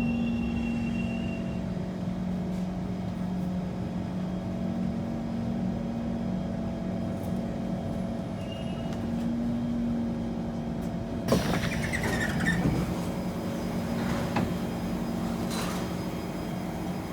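Kawasaki C151 metro train standing in an underground station with a steady hum from its onboard equipment. About eleven seconds in, a sudden louder rush of noise sets in, with a brief high squeal, and carries on.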